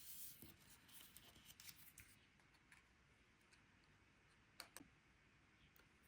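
Faint rustling and light clicks of small cut paper pieces being handled, with a sharper double click about four and a half seconds in.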